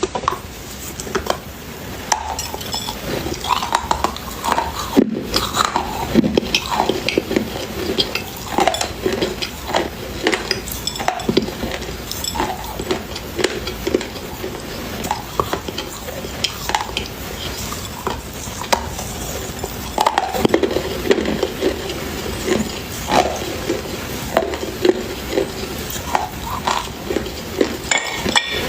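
Dry clay being bitten and chewed, close up: a continuous run of crisp cracks and crunches.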